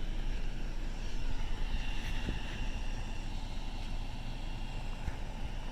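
Car running, a steady low rumble heard from inside the cabin.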